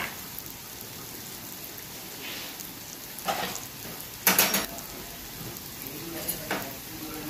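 Hot oil sizzling steadily in a kadhai as freshly added ground masala fries with chopped tomato, green chilli and ginger. A few short clatters cut through it, the loudest about four and a half seconds in.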